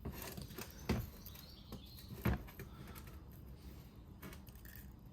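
Screwdriver pressing a steel circlip down into a brake caliper cylinder: small metallic clicks and scrapes, with two sharper taps about a second and two and a half seconds in.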